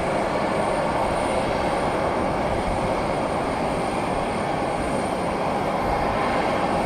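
Jet airliner engines running, a steady, even noise with a faint tone showing a few seconds in.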